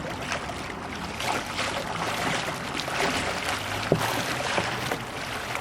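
Kayak paddle sculling in the water for support, the blade sweeping to and fro and splashing irregularly, with one sharp knock about four seconds in.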